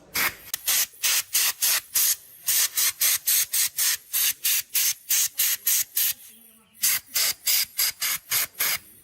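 Rapid, even scraping strokes by hand on a part, about five a second, with a short pause a little past the middle.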